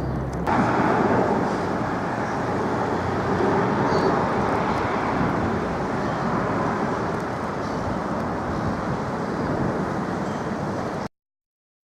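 Steady road traffic noise with no clear single vehicle standing out. The sound changes abruptly about half a second in and cuts out to silence near the end.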